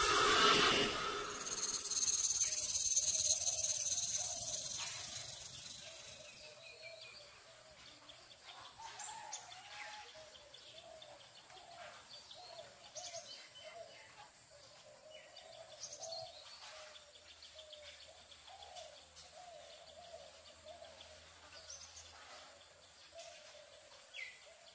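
Birds chirping and calling in quiet outdoor ambience, with short high chirps scattered throughout. A louder rushing noise fades away over the first several seconds.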